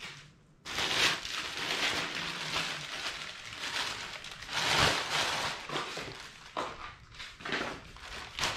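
Rustling and handling of packaging while small hardware is dug out of it, starting suddenly less than a second in and carrying on with uneven swells.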